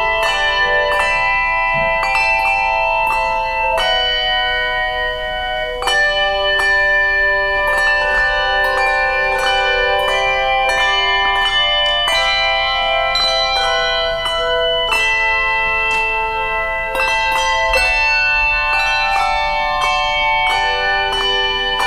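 Handbell choir playing a piece: many tuned handbells struck in chords, each note ringing on as new ones are struck.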